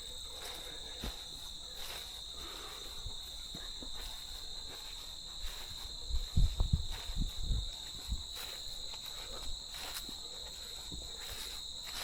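Steady chorus of insects, crickets, as a constant high-pitched drone. A few low thumps, footsteps or handling of the phone, come about halfway through.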